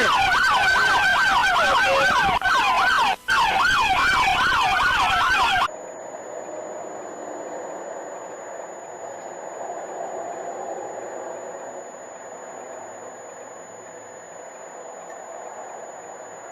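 Police siren in a fast yelp, its pitch sweeping rapidly up and down, with two brief dropouts, cutting off abruptly about five and a half seconds in. A much quieter steady noise with a thin high whine follows.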